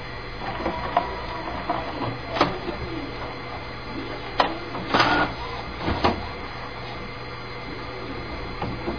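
HP inkjet printer running, its mechanism making a steady whirr broken by several sharp clacks.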